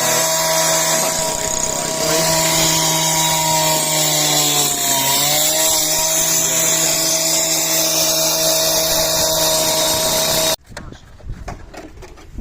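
A power saw cutting out the old concrete of the driveway, running at a steady high pitch. Its pitch dips briefly about five seconds in as the blade is loaded, and it stops abruptly near the end.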